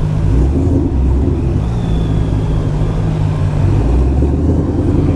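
Yamaha Niken's 850 cc three-cylinder engine running on its stock exhaust while being ridden. The engine note holds steady with a couple of shifts in pitch, about a second and a half in and again nearly four seconds in.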